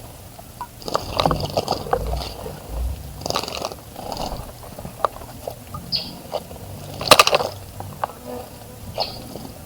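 Small birds splashing and fluttering in a bird bath, with short high chirps every few seconds; the loudest splash comes about seven seconds in.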